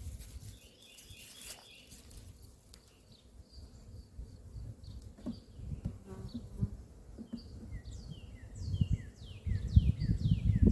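Honeybees buzzing around an open hive while its frames are handled. A bird sings a run of quick falling chirps over it near the end.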